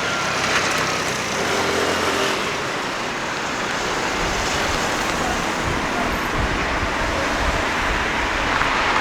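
City street traffic: cars and heavier vehicles passing close by, a steady hiss of tyres and engines, with a deeper rumble joining from about four seconds in.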